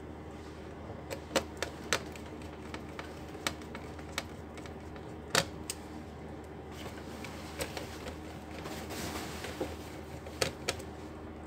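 About ten scattered sharp clicks and taps of hard plastic laptop parts being handled and fitted during repair of an Acer Nitro laptop, with a brief soft rustle about eight to nine seconds in.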